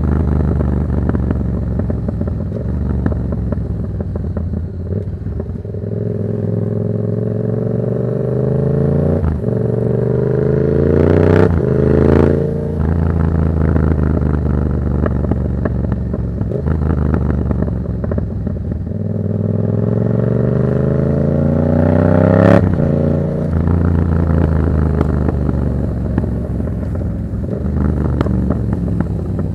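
2024 Yamaha MT-07's 689 cc parallel-twin engine through an aftermarket Black Widow exhaust, ridden under power. The engine note climbs twice as the bike accelerates, each climb breaking off sharply at an upshift, about eleven seconds in and again about twenty-two seconds in.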